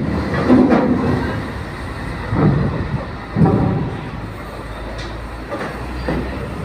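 Heavy vehicles and machinery moving on a ferry's car deck during loading of heavy equipment: a steady low rumble with several louder clanking surges, the loudest about half a second in and around two and a half and three and a half seconds.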